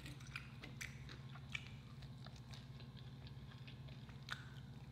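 Faint close-up chewing of French fries, with scattered soft mouth clicks and small crunches over a low steady hum.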